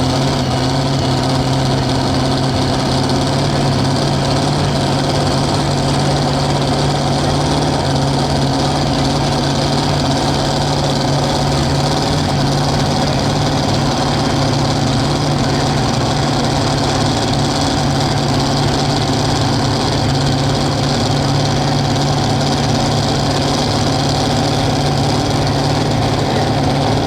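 An engine idling at a steady, unchanging speed, with a constant low hum.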